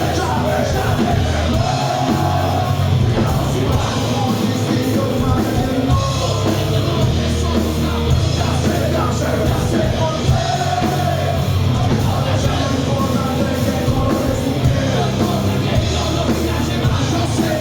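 A rock band playing live and loud, with a singer shouting the vocals over the band.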